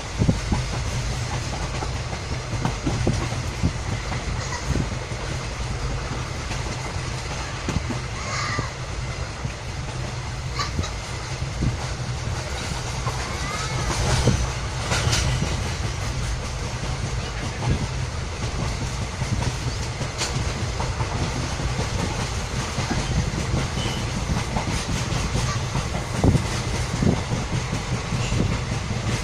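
A moving train heard from aboard: the steady rumble of wheels running on the rails, with occasional clicks from the track and a few brief squeaks about halfway through.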